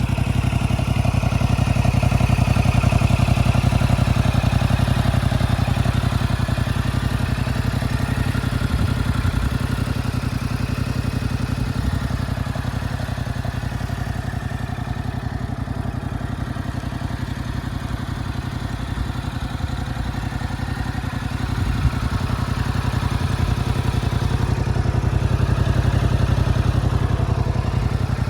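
2026 Yamaha YZF-R7's 689 cc parallel-twin engine idling steadily, with no revving.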